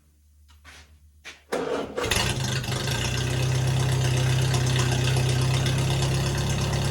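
Flathead engine being started: a few light clicks, a short burst of cranking, then the engine catches about two seconds in and settles into a steady idle. This is a test run to check that it breathes well through its new open velocity-stack intake.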